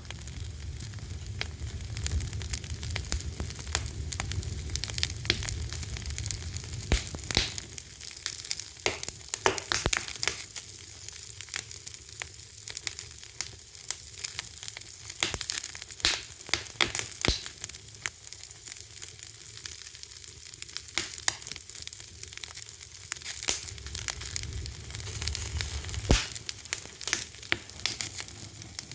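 Fire crackling, with frequent sharp pops and snaps over a continuous hiss and a low rumble that eases in the middle and returns near the end.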